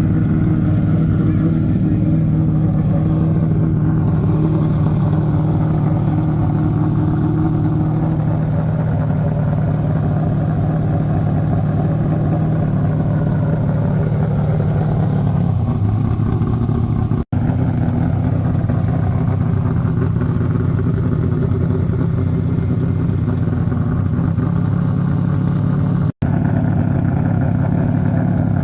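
Ford Falcon XD V8 race car engine idling, loud and steady.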